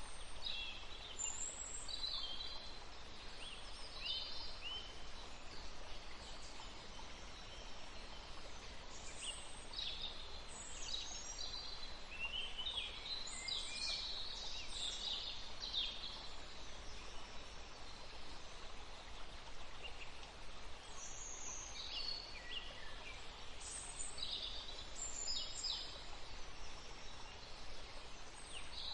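Forest songbirds chirping and trilling in scattered bursts, busiest in the middle, over a steady soft breeze.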